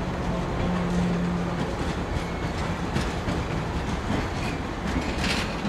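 Steel wheels of a passing train of stainless-steel passenger cars rolling along the rails: a steady rumble with occasional sharp clicks as the wheels cross rail joints.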